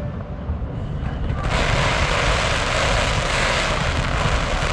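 Fireworks giving off a steady hiss that starts suddenly about a second and a half in, over a low rumble.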